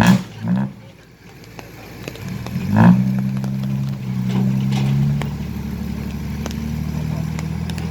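Motorcycle engine run up and held at steady revs, coming in loudly about three seconds in and easing a little around five seconds, as the bike is worked out of a muddy pit. Two short loud sounds come just before it, near the start.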